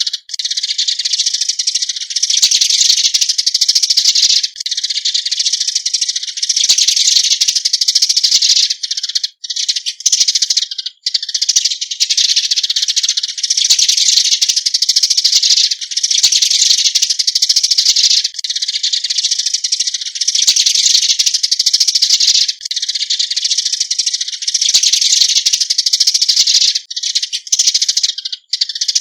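Eurasian tree sparrows giving flock calls: a loud, dense, continuous chatter of high chirps, broken by a few brief pauses.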